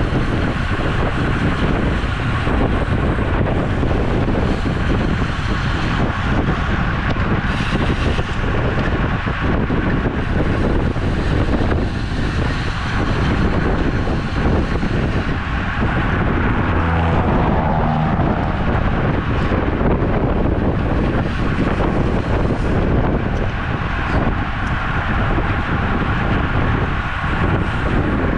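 Steady, loud wind rush buffeting the microphone of a camera riding on a road bicycle at speed, mixed with road noise. A brief pitched sound cuts through about seventeen seconds in.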